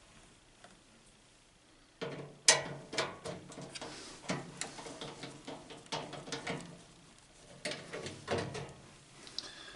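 Hand tools at work on a microwave oven's sheet-metal casing: irregular clicks and metal knocks as screws are worked out, starting about two seconds in.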